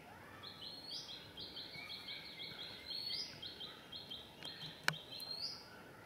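A bird calling: a fast run of short, high, evenly spaced chirps, about four a second, broken now and then by a quick rising note. A single sharp click near the end.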